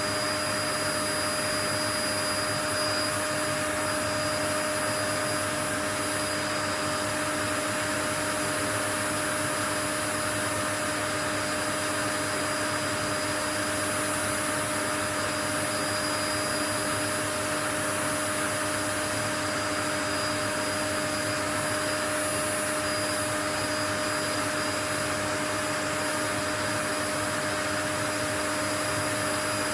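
Continuous white noise: a steady rushing hiss with a few constant whining tones, like an electric motor running without change.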